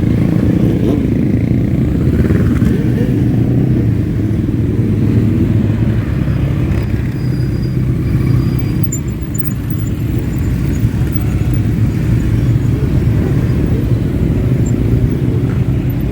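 Engines of a group of motorcycles riding past in a parade, a continuous low rumble that stays at much the same level throughout.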